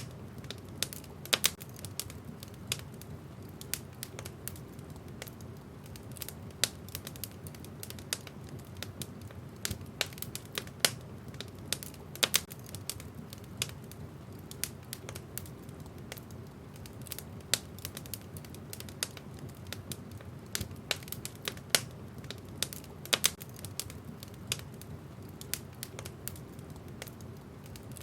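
Wood fire in a fireplace crackling: irregular sharp pops and snaps, a few of them louder, over a steady low rumble of the burning.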